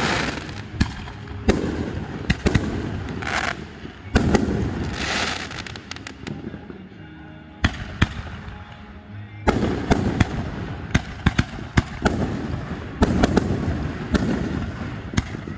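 Fireworks display going off: sharp bangs one after another with patches of hissing crackle between them. The bangs come thick and fast from about ten seconds in.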